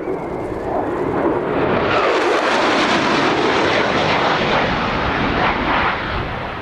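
F-16 Fighting Falcon jet making a high-speed low pass. The jet roar builds, spreads into a harsh high-pitched rush about two seconds in, holds for several seconds and starts to fade near the end.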